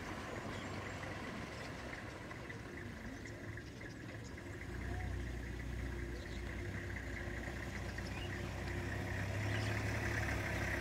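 A vehicle engine idling: a steady low hum that grows louder about five seconds in. A steady high buzz runs over it and grows louder near the end.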